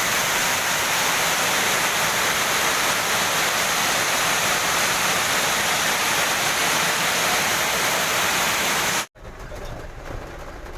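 Heavy rain falling in a steady, loud hiss. It cuts off abruptly about nine seconds in, leaving a much quieter background with a low rumble.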